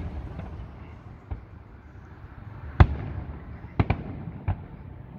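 Aerial firework shells bursting: a string of sharp booms, about five in all, loudest about three seconds in, followed by a quick double bang a second later.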